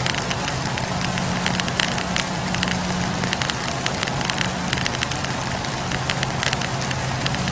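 Wood fire burning, with many small irregular crackles and pops from the burning logs over a steady rush of flame, and a low steady hum underneath.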